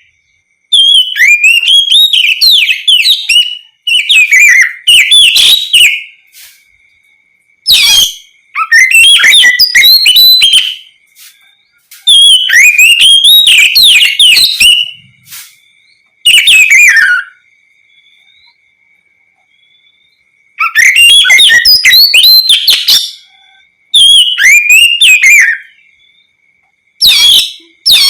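Oriental magpie-robin (kacer) singing loud, varied whistled phrases in bursts of one to three seconds separated by short pauses, over a faint steady high tone.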